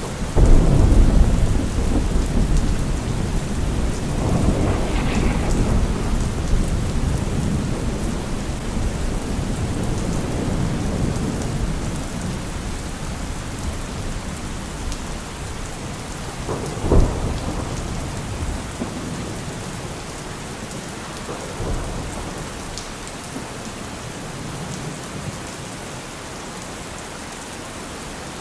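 Steady rain with thunder. A long rolling rumble at the start fades over several seconds, a sharp thunderclap comes about 17 seconds in, and fainter rumbles follow a few seconds later.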